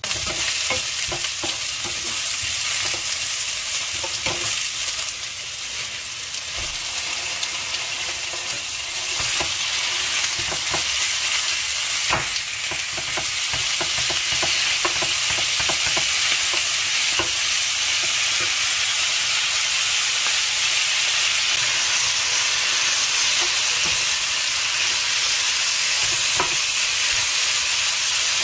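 Sliced onions sizzling in a hot nonstick frying pan, stirred with a wooden spatula that taps and scrapes against the pan. Partway through, marinated pork shoulder is being stir-fried with the onions, and the sizzling gets louder.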